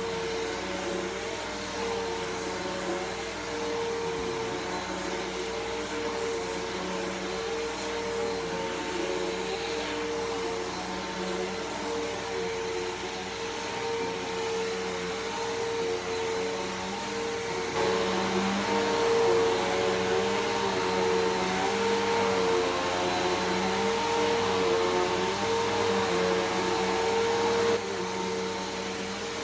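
Bissell Powerforce Helix Turbo upright vacuum running steadily over a rug, with a steady motor whine. It gets louder for about ten seconds in the second half, then drops back.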